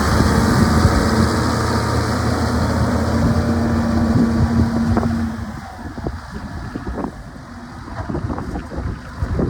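Cat Challenger 65C tracked tractor's diesel engine idling steadily, then going quiet about halfway through. After that only wind buffeting the microphone is left.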